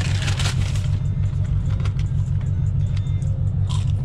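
Scion FR-S's FA20 flat-four engine droning at steady revs through catless Tomei headers and an ISR cat-back exhaust, heard from inside the cabin. A short hiss sounds in the first half second.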